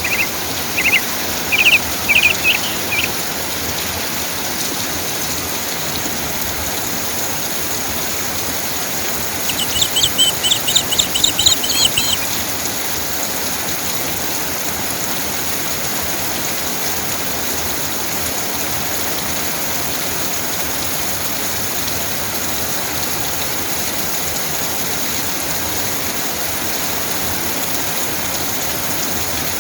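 Steady rain falling. A bird chirps in quick runs of short calls twice: during the first three seconds and again about ten seconds in.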